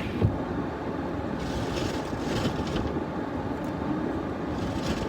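Steady rumble and hiss inside a car with the engine running, with a light knock just after the start.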